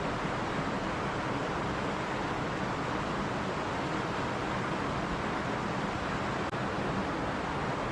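A running stream: a steady, even rush of flowing water, with a momentary dropout about six and a half seconds in.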